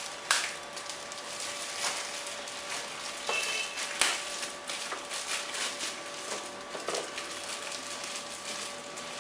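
Packaging being handled as foam tail pieces are unpacked: rustling and crinkling of plastic wrapping, with a few sharp clicks and knocks at irregular moments.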